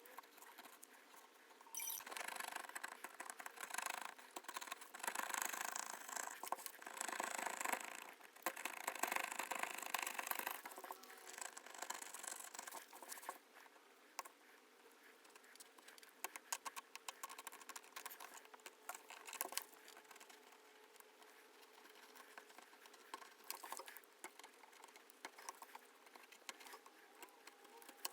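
A knife blade scraping old adhesive residue off the iPhone 11 Pro's frame where the back glass was bonded. There is a faint run of dry scratching strokes for about the first half, then lighter scratches and small ticks.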